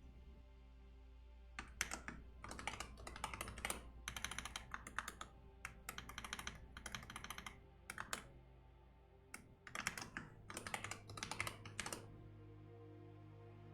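Typing on a computer keyboard in quick bursts of keystrokes, with a short pause partway through, over soft background music. The typing stops about twelve seconds in and the music carries on.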